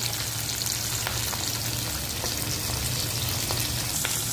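Bell pepper and onion pieces sizzling steadily in hot oil in a metal kadai, being fried until soft. A few faint clicks of a slotted spoon stirring against the pan come through.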